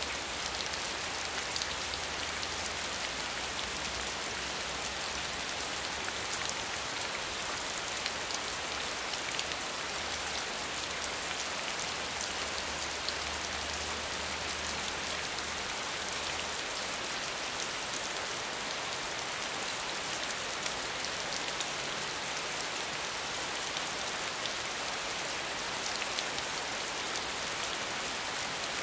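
Steady medium rainfall: a dense, even patter of drops with a constant hiss. A faint low hum sits underneath and fades out a little over halfway through.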